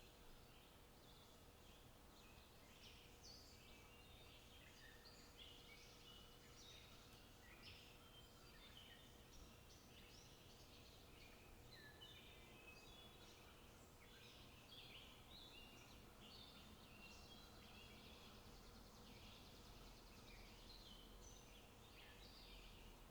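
Faint chorus of small birds twittering: many short, overlapping high chirps with no pause, over a low, even background noise and a faint steady hum.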